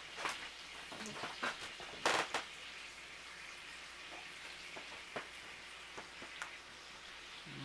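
Pancakes frying in oil on a cast iron griddle, a steady sizzling hiss, with a few sharp clicks, the loudest about two seconds in.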